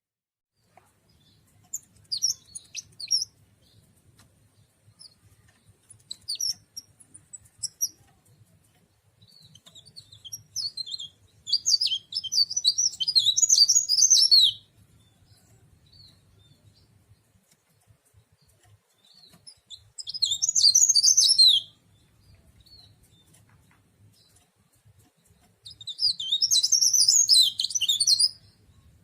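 Cikrak daun (leaf warbler) singing: a few short high chirps, then three fast twittering song phrases of about two to three seconds each, each ending on a lower slurred note.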